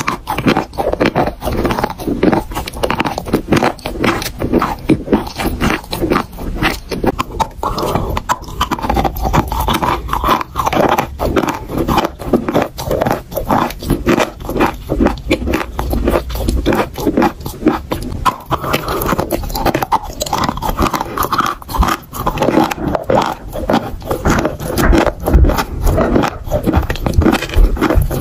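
Close-miked chewing of dry chalk: a dense, unbroken run of small gritty crunches and scraping as the lumps are ground between the teeth.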